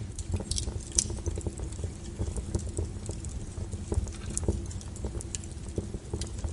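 Wood fire burning in a fireplace, crackling and popping irregularly over a low steady rumble of flames, with a sharper pop about a second in.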